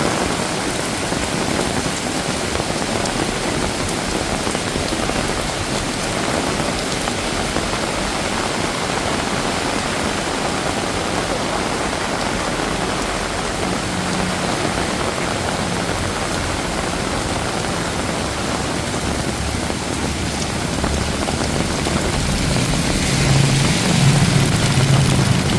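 Heavy rain falling steadily. Near the end, a low engine hum swells as a vehicle passes.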